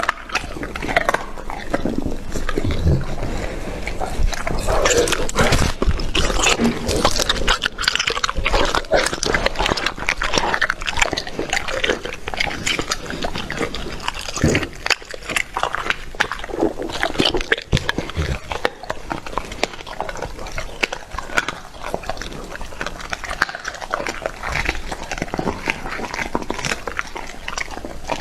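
Dog chewing raw meat: wet smacking and crunching bites in a dense, irregular run of clicks.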